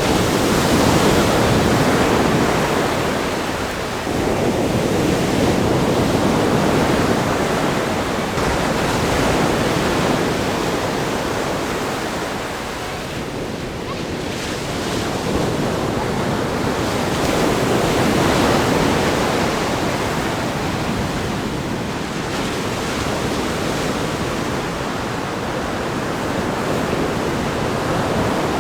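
Ocean waves breaking and washing against a rock groin, a continuous surf roar that swells and eases every few seconds, with some wind on the microphone.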